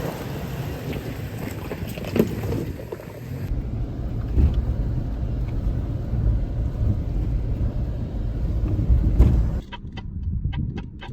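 Toyota Tacoma driving on an off-road trail: a steady low engine and drivetrain rumble with scattered knocks. Near the end it gives way to a rapid, even ticking of about six a second.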